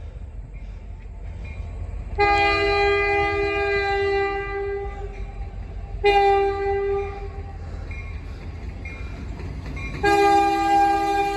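CN 5404's air horn on an EMD SD60 locomotive sounding for a grade crossing: a long chord blast, then a short one, then another long blast starting near the end, over a steady low rumble.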